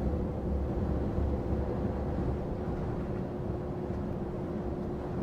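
Heavy goods lorry driving, heard from inside its cab: a steady low engine and road rumble with a constant hum.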